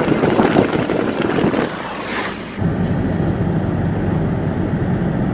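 Car driving on the road: steady rumble and wind noise from the moving vehicle, rougher for the first couple of seconds and then cutting abruptly to a steadier, lower road rumble.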